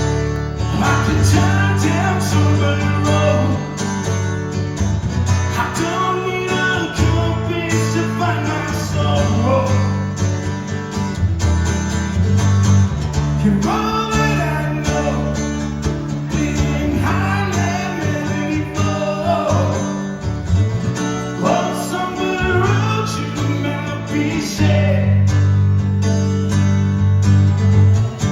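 Live acoustic guitars playing an instrumental break in a country song: strummed chords under a lead melody line that bends in pitch.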